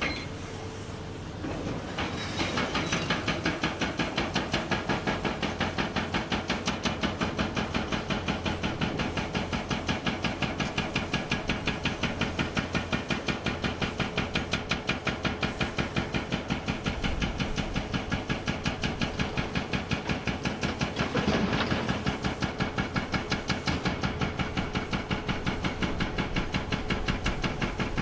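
Hydraulic breaker hammer on a Komatsu PC490 excavator pounding rock with an even, rapid run of several blows a second. It starts about two seconds in over the excavator's engine.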